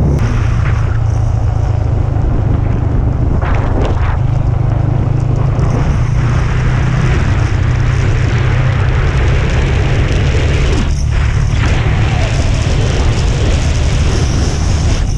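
Motorcycle running steadily at speed, with heavy wind rumble on the microphone.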